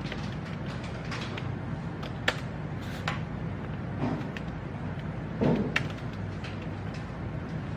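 Library reading room ambience: a steady low hum with a few scattered sharp clicks, about two seconds in and near six seconds, and brief soft knocks or rustles around four and five and a half seconds.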